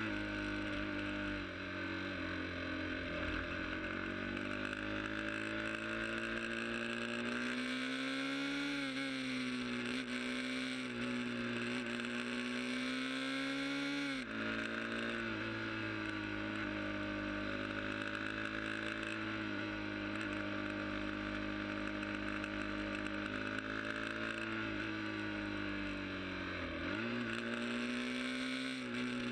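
Sport motorcycle engine running at steady cruising speed, its pitch climbing slowly for about ten seconds, then dropping suddenly about halfway through, with another brief dip near the end.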